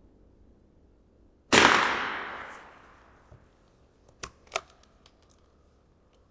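A single .22 LR rifle shot with a long echoing decay, followed a couple of seconds later by a few small sharp clicks.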